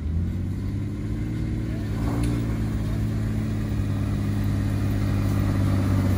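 Jeep engine running at a steady low speed, slowly growing louder.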